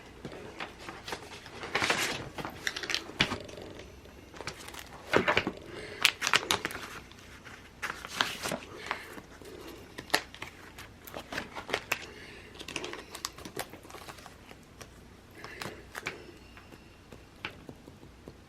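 Sheets of paper stickers being handled and shuffled: irregular rustling and crinkling with scattered light taps and clicks.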